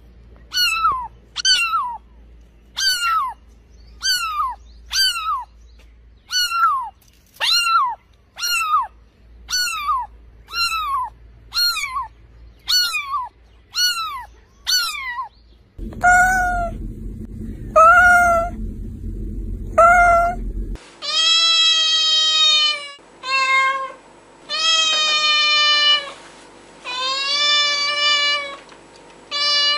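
Cats meowing. First a kitten gives short, high-pitched mews in quick succession, each falling in pitch. About 16 seconds in, the sound changes to three longer mews over background noise, then to long, drawn-out meows mixed with a few short ones.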